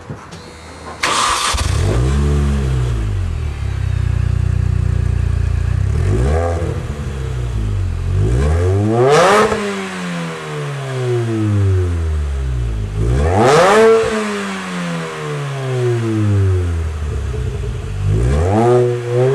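Supercharged four-cylinder engine of an R53 MINI Cooper S, heard through a modified John Cooper Works exhaust with emptied-out cans and a Borla muffler. It starts about a second in and settles to an idle, then gets a short blip followed by three full revs, each climbing in pitch and falling back to idle.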